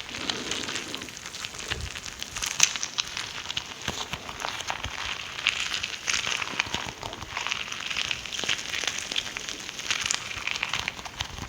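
Wet mouth sounds: a dense, continuous run of tongue and lip clicks and smacks.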